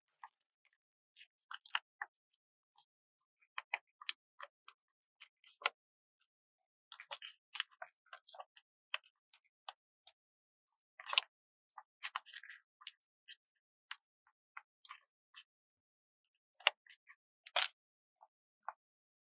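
Paper stickers being peeled and handled: irregular small crisp crackles and taps, with silent gaps between them.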